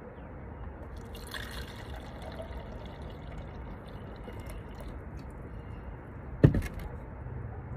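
Water pouring and dripping for a few seconds, then one sharp knock near the end.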